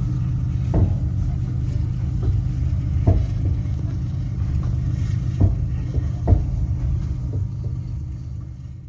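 Passenger train running on the rails: a steady low rumble with a few scattered sharp knocks, fading out near the end.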